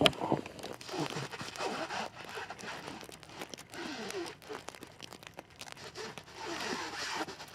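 Plastic stretch wrap being pulled off the roll and wound around a shelter frame: repeated ripping, crinkling strokes with short squeaks as the film stretches.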